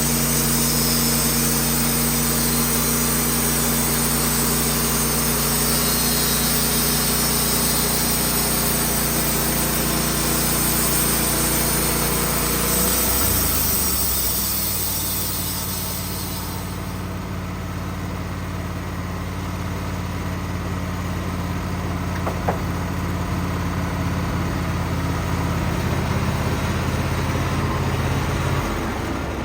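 Wood-Mizer portable band sawmill running steadily, its engine note shifting about halfway through, with a loud hiss from the band saw cutting birch that fades out a few seconds later.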